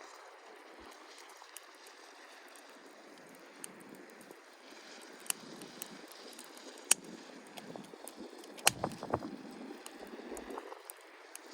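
Campfire of softwood firewood burning: a steady rush of flames with scattered sharp pops and crackles, and a cluster of louder knocks and crackles near the end.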